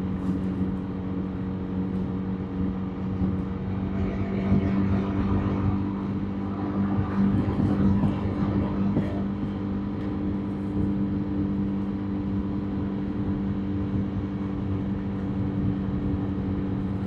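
Motorbike engine running steadily at cruising speed, with tyre and road noise. A louder swell of traffic noise comes in around the middle and fades.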